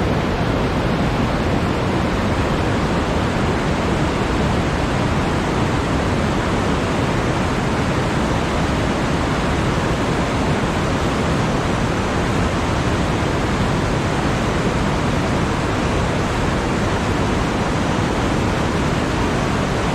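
A steady, even rushing noise that does not change, with nothing standing out from it.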